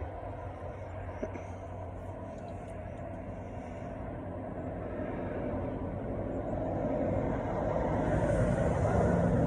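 A steady low rumbling noise that grows louder over the last few seconds.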